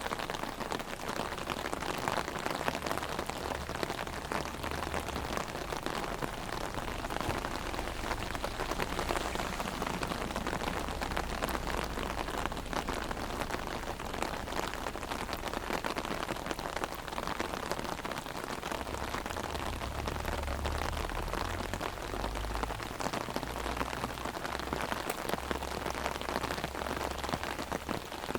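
Heavy rain drumming on an umbrella overhead: a dense, steady patter of countless drops hitting the fabric, with a low rumble coming and going underneath.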